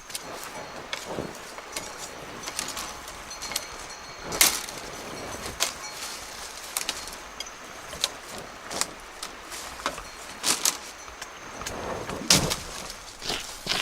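Irregular sharp knocks and snaps, about one or two a second, with louder ones about four seconds in and near the end, like wood or bamboo being worked by hand.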